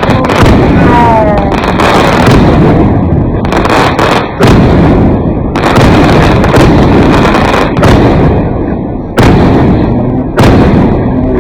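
Fireworks going off in a dense barrage: loud bangs every second or two over a continuous rumble of crackling and booming.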